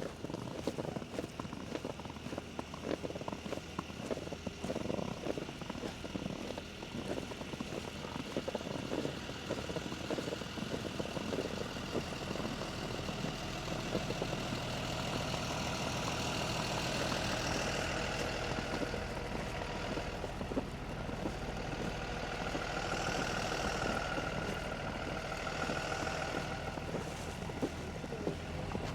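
Footsteps crunching through deep fresh snow, then from about halfway a motor vehicle engine running steadily, with a faint whine above it.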